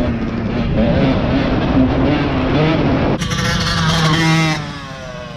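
Dirt bike engine revving up and down, its pitch rising and falling. About three seconds in a sharper, higher engine note comes in, then the sound dies down toward the end.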